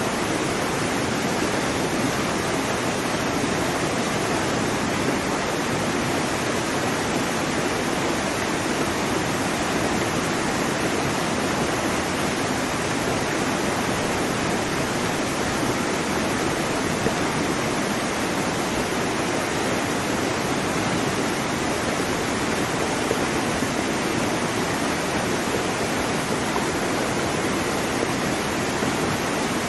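Waterfall: water falling in a steady, even rush, with no change in level.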